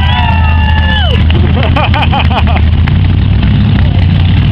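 Hot rod engine running steadily with a loud, low, even rumble, with voices in the background.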